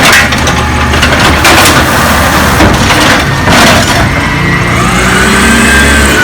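Peterbilt 320 garbage truck running with a steady low engine drone, while several loud crashes of trash sound in the first four seconds. From about five seconds in, a whine rises and falls as the truck works.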